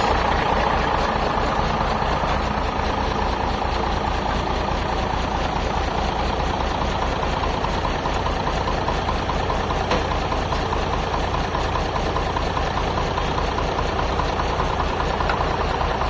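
Forklift engine running steadily at idle, just after being started, a little louder in the first second before settling.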